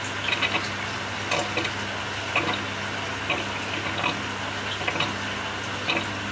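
Samsung 6.5 kg top-loading washing machine agitating its load in water: splashing and sloshing about once a second as the pulsator turns back and forth, over a steady motor hum.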